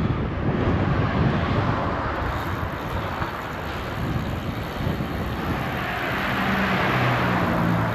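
Wind rushing over a GoPro's microphone on a moving bicycle, with street traffic. A vehicle's engine comes in about six seconds in as the noise swells.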